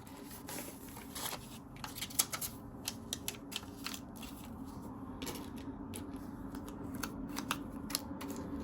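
Paper money and cash envelopes being handled: irregular crisp rustles and light flicks of paper, over a low, steady hum.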